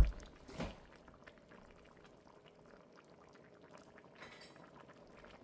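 A short knock, then a pot of chicken in gravy simmering faintly, with small bubbling ticks and a brief soft hiss about four seconds in.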